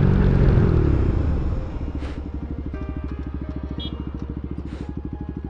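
Bajaj Pulsar NS200 single-cylinder engine through an aftermarket Akrapovic exhaust, its note falling as the bike slows. It then settles into a steady, evenly pulsing idle.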